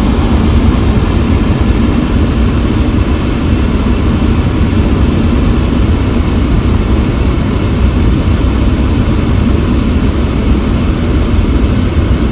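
Wind buffeting the microphone in a snowstorm: a loud, steady rumbling noise, heaviest in the low end, wavering in strength.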